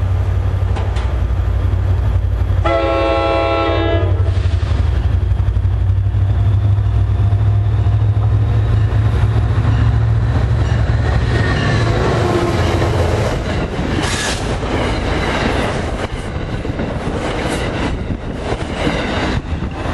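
A commuter train passing close by: a steady low locomotive drone, one short blast of its multi-tone horn about three seconds in, then the rumble and clatter of the cars going by.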